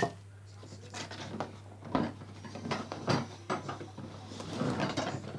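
Plastic bird feeder parts being handled and unpacked from their box: a run of light knocks, clicks and rustles, over a steady low hum.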